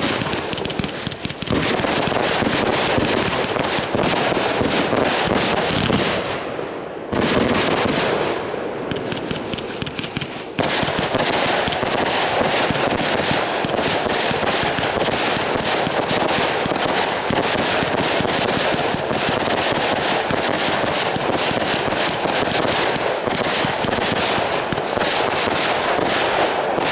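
Fireworks going off in a dense, continuous barrage of rapid bangs and crackle. The firing jumps sharply louder three times: about a second and a half, seven, and ten and a half seconds in.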